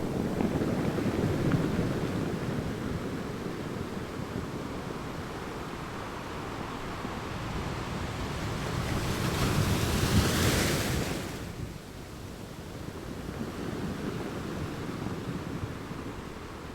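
Ocean waves washing in and out in a steady noisy surf, with one bigger wave surging and breaking about ten seconds in.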